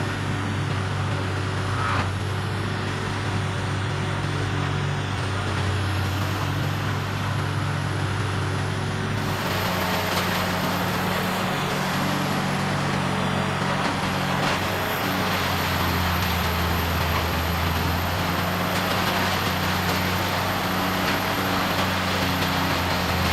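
Heavy diesel-powered tub grinder running steadily as it grinds wood, a continuous engine hum under the grinding noise. The engine note changes about nine seconds in and again about fifteen seconds in.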